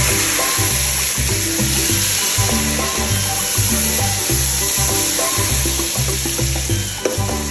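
Chopped tomatoes and green chillies sizzling in hot oil as they are stirred in the pan with a slotted spoon, over background music with a steady bass beat.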